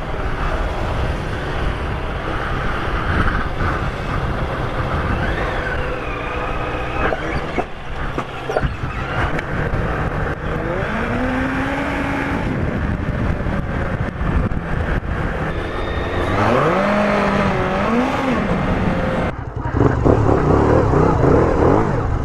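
Sport motorcycle engine running under way, its pitch rising and falling as the throttle opens and closes. The sound dips briefly about nineteen seconds in, then comes back louder.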